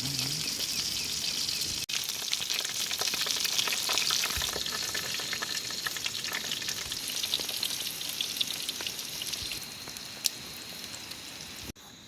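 Hot oil sizzling and crackling as pieces of bird are deep-fried until crispy. It is a dense spitting hiss full of small pops, easing a little after about nine and a half seconds, and it stops abruptly near the end.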